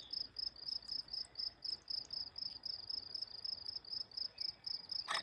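Cricket chirping steadily in a fast, even, high-pitched rhythm of about five chirps a second, with one short click near the end.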